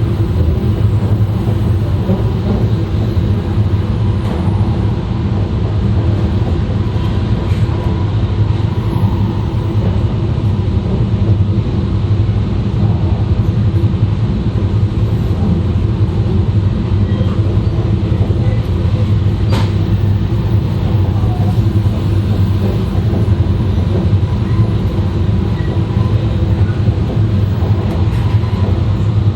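E2 series Shinkansen train running at steady speed, heard from the vestibule deck between cars: a continuous rumble of wheels on rails and car-body noise. About two-thirds of the way through there is a single sharp click.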